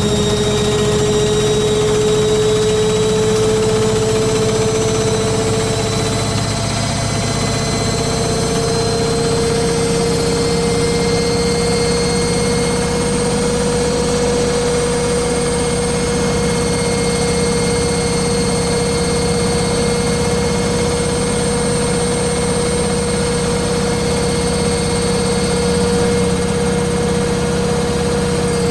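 Beko WTG620M1 washing machine spinning at speed: a steady motor whine over a low drum rumble. The whine steps up a little in pitch about seven seconds in, then holds steady.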